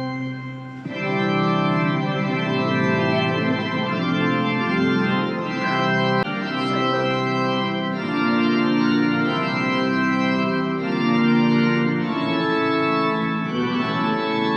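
Organ playing slow, held chords that change every few seconds.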